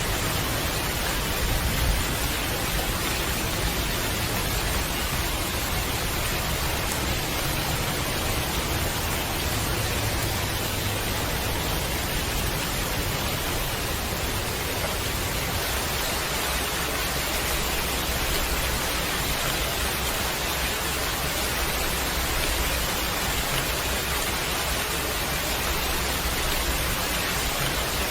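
Steady heavy rain, a dense even hiss with a low rumble underneath.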